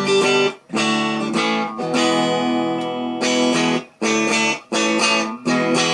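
Telecaster-style electric guitar built from a kit, strummed through an amp: a run of chords about once a second, several of them cut short. The pickup has just been raised closer to the strings to make it louder, and this is the test of that height adjustment.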